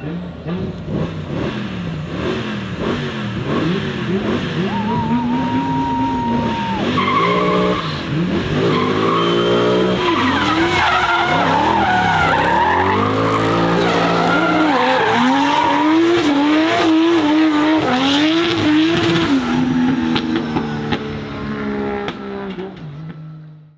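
Hillclimb race car engines revving hard, pitch climbing and dropping again and again through gear changes, with several engines overlapping, and tyre squeal. The sound fades out at the very end.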